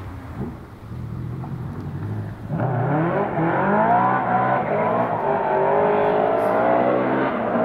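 Flat-plane-crank V8 of the TVR AJP8 family, used as the engine sound of the Audi A2. It runs low at first, then about two and a half seconds in it opens up and revs hard, pitch climbing, dipping briefly and climbing again, holding high revs near the end.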